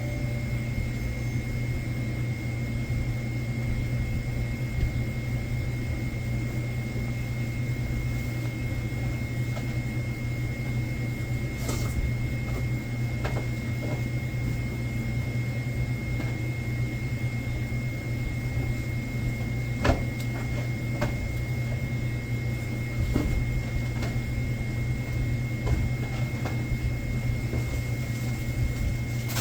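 Steady low machine hum with a constant high-pitched tone above it, and a few light knocks and clicks now and then.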